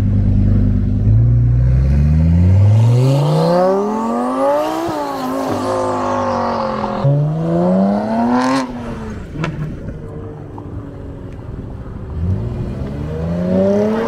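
Supercar engine pulling hard, its note climbing in pitch several times with drops between the climbs, as at gear changes or a car passing. A sharp crack comes a little past halfway, then it quietens before another engine revs up near the end.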